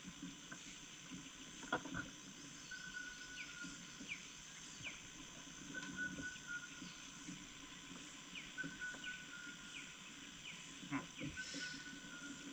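Faint chorus of wild animals calling: a steady high-pitched buzz, a held note about a second long repeating every couple of seconds, and short falling chirps. A couple of faint knocks come through about two seconds in and again near the end.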